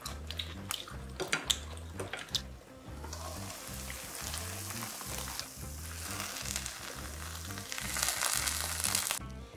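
Cheese fried rice sizzling in a hot pan on a portable gas stove, a steady hiss that starts about three seconds in as the lid comes off and grows louder near the end as a wooden spoon scoops through it. A few light clicks and knocks come before the sizzling.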